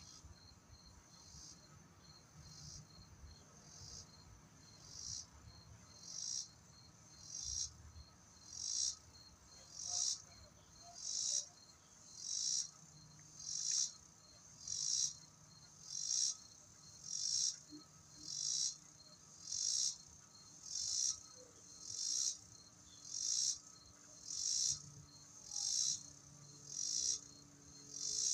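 Squirrel giving a high-pitched call, repeated steadily about every second and growing louder, over a faint steady insect trill.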